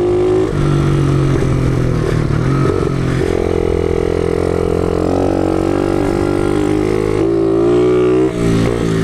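Pit bike's four-stroke single-cylinder engine running under way, its pitch stepping up and down several times with the throttle.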